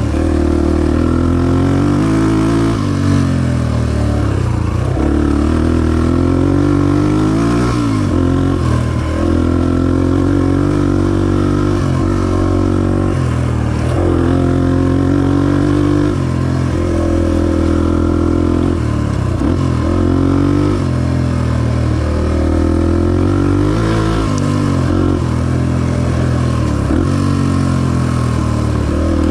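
Honda XR250 dirt bike's single-cylinder four-stroke engine running under load while being ridden, the revs climbing and dropping back again and again every few seconds.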